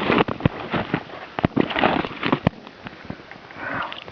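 Irregular sharp knocks and crunching snow: a fist striking a shovel blade laid on top of an isolated snow column during the hardest, from-the-shoulder stage of an extended compression test.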